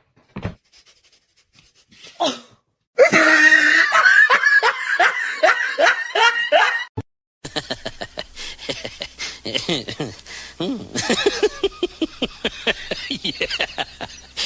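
People laughing hard in rapid repeated bursts. The laughter breaks off about seven seconds in and starts again after a short gap, mixed with short clicks.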